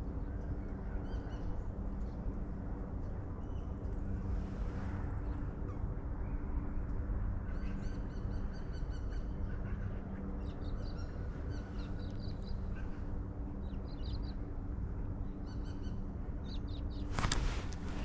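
Small birds chirping in short repeated bursts of quick high notes over a steady low outdoor hum, with a brief rush of noise near the end.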